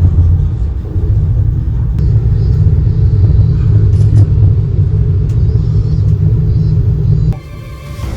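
Ropeway gondola cabin rumbling as it sets off from the station, a steady low rumble that cuts off sharply about seven seconds in. Quieter background music follows near the end.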